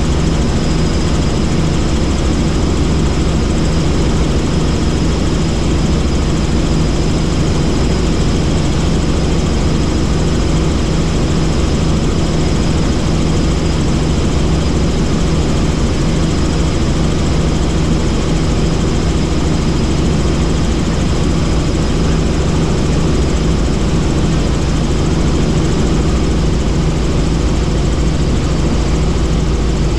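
Helicopter in flight: steady rotor and turbine engine noise, loud and unchanging, heavy in the low end.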